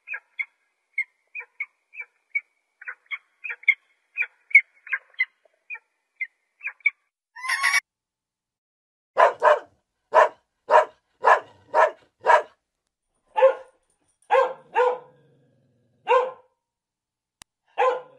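A dog barking about a dozen times, roughly two barks a second at first, then more spaced out. Before the barking comes a run of short, high bird chirps and one louder rising cry.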